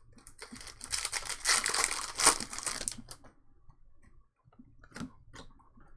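A trading card pack's wrapper is torn open and crinkled for about three seconds, followed by a few light clicks of cards being handled.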